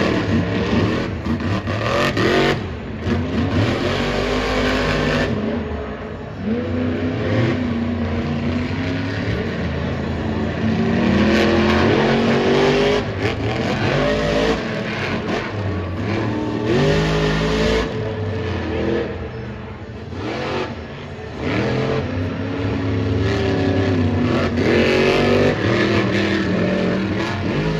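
Monster truck's supercharged alcohol-burning V8 engine revving hard under repeated throttle, its pitch sweeping up and dropping back again and again.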